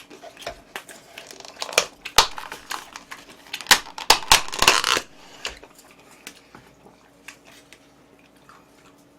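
Close-miked eating and food-handling sounds: sharp clicks, crackles and crinkling as food is picked up, wrapped and chewed. They are busiest and loudest in the first five seconds, then thin out to a few faint clicks over a faint steady hum.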